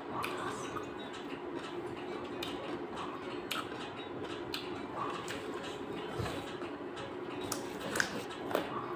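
Person chewing raw carrot, with short sharp crunches roughly once a second, a cluster near the end, over a steady background hum.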